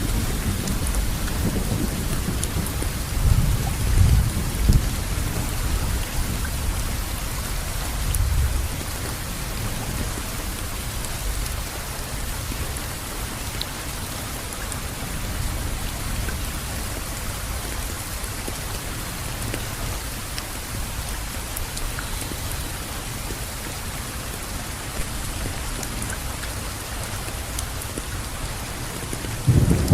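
Steady rainfall with rolling thunder. A low thunder rumble swells and dies away over the first several seconds, leaving only rain. A new rumble starts right at the end.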